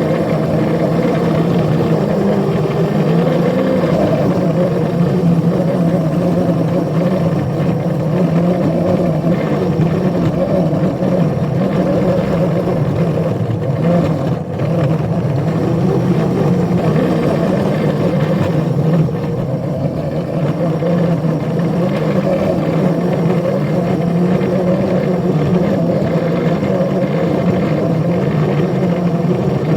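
Small railroad locomotive's engine running steadily under load while hauling a train, a continuous drone.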